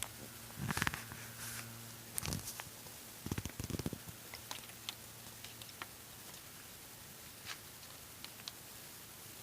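Scattered small clicks and rustling handling noises, busiest in the first four seconds, over a low hum that stops partway through.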